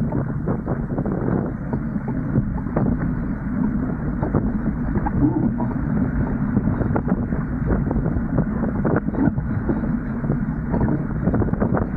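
Wind buffeting the microphone aboard a Dart 18 catamaran under sail, with the rush of water along the hulls; a steady noise broken by frequent short buffets.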